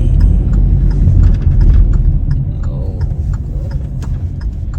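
Low rumble of a car on the move, heard from inside the cabin, with light ticking and clicking rattles scattered through it.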